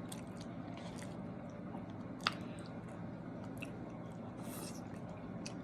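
A person chewing food close to the microphone, with small wet mouth clicks scattered through and one sharper click about two seconds in.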